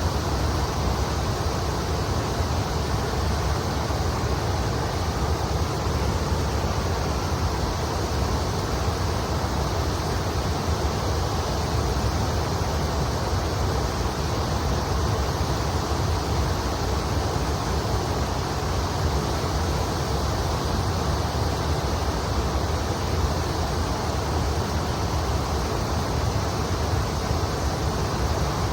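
Kamo River water flowing, an even, unbroken rush with a strong low rumble underneath.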